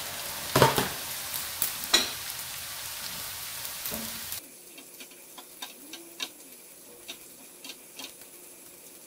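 Dried small anchovies frying in hot oil in a metal pan: a steady sizzle with a few sharp knocks of a spatula stirring them. About four seconds in, the sizzle drops abruptly to a fainter hiss with scattered spatula taps.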